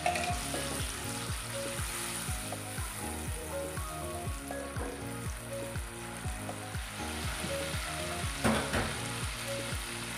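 Sliced onions and ground spice paste sizzling in hot oil in a nonstick wok, stirred with a plastic spatula, with one louder knock of the spatula against the pan about eight seconds in. Soft background music with a steady beat plays along.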